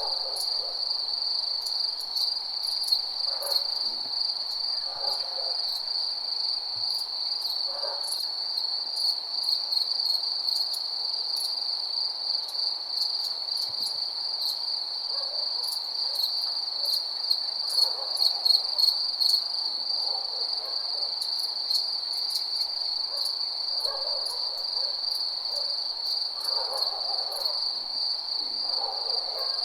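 Night nature ambience: crickets chirring in a steady, unbroken high trill, with softer low hoots recurring every few seconds beneath it.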